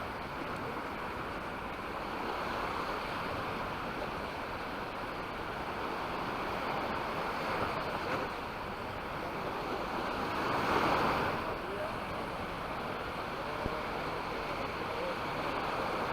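Sea waves washing onto a beach: a steady rush of surf, swelling into a louder wave about eleven seconds in.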